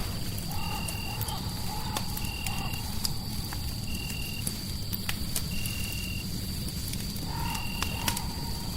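Layered fireside ambience: a fire crackling with scattered sharp pops over a steady low rumble of noise. Short, even, high-pitched chirps repeat about every second and a half, and a wavering croaking call comes twice, early and near the end.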